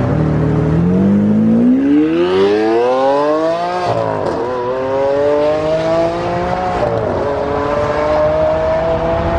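Lamborghini V12 supercar accelerating hard with the engine revving up through the gears. Its pitch climbs steeply and drops at upshifts about four and seven seconds in.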